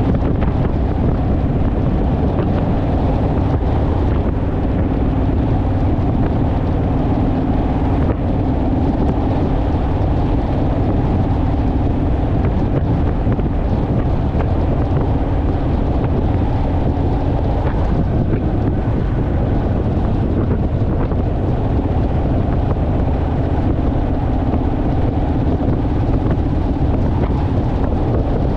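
Honda Rebel parallel-twin motorcycle engine running at a steady cruising speed, with heavy wind buffeting on the microphone. The engine note stays mostly even, fading back a little about two-thirds of the way through before it returns.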